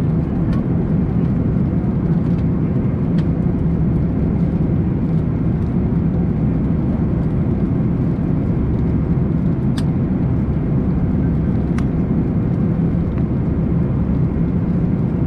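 Steady cabin noise of an Airbus A340-300 in flight: an even, deep roar of airflow and engines, with a few faint clicks.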